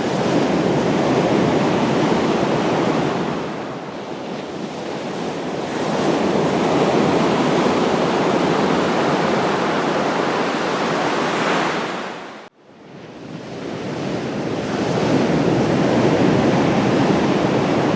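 Ocean waves breaking and washing up the shore, the rush swelling and ebbing in three surges. The sound cuts out abruptly for a moment about two-thirds of the way through, then builds again.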